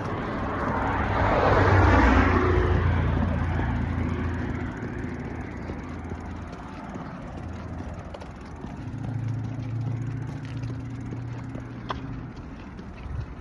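Motorbike engine running through a loud exhaust pipe, swelling to its loudest about two seconds in and rising in pitch again around nine to eleven seconds as it is revved.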